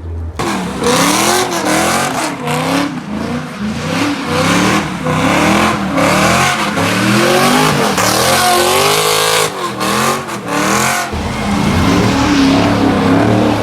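A car engine revving hard up and down over and over, with tires squealing and screeching as the car slides in a spin or donut. It starts suddenly just after the start.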